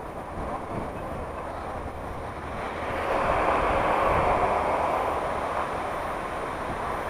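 Steady rushing noise of a vehicle on the move, swelling louder about three seconds in and then easing off.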